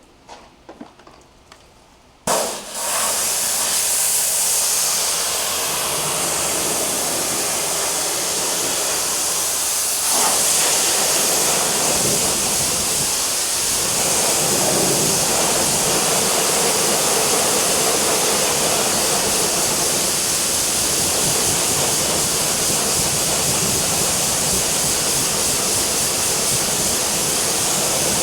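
Pressure washer spraying water onto a car, a loud steady hiss that starts suddenly about two seconds in.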